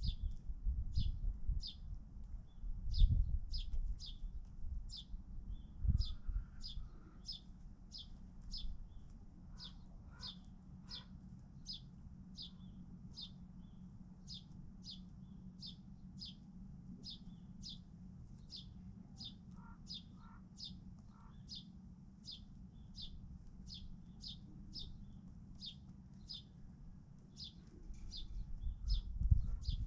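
A bird chirping over and over, about two short high chirps a second, with a few fainter, lower calls from another bird. Low rumbling bumps come in the first few seconds and again near the end.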